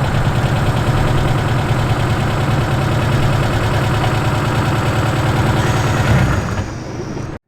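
Car engine idling steadily with a deep low drone. It drops quieter about six and a half seconds in and cuts off suddenly near the end.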